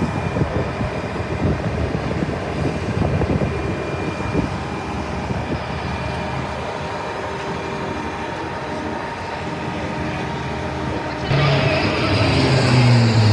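Aircraft engine noise: a steady rushing drone with a faint held whine. About eleven seconds in it grows louder, and the pitch falls as the aircraft passes.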